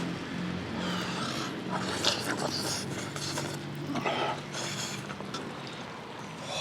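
Spicy instant ramen being eaten: several short wet slurps of noodles and broth, with faint steady tones underneath.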